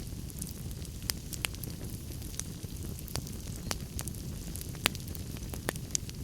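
Wood fire crackling in a fireplace: a steady low rumble with irregular sharp pops and snaps, the loudest a little before five seconds in.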